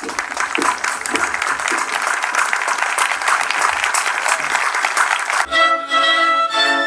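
Audience applauding, then a symphonic orchestra's strings start playing about five and a half seconds in.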